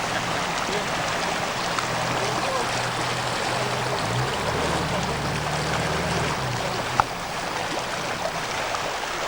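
Steady rush of flowing river water at the Nile's outflow from Lake Victoria, with a low steady motor hum under it that swells for a couple of seconds midway. A single sharp click about seven seconds in.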